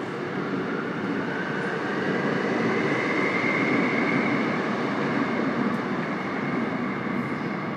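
Seoul Subway Line 5 5000-series electric train pulling away from a station. Its traction motors whine with a rising tone over the first few seconds, over the steady rumble of wheels on rail.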